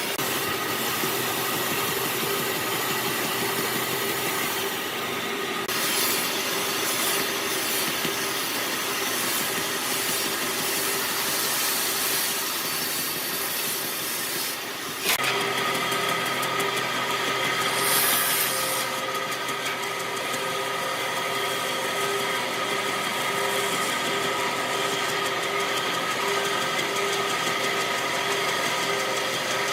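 Woodworking power tool motor running steadily, with a sharp change in its sound about halfway through.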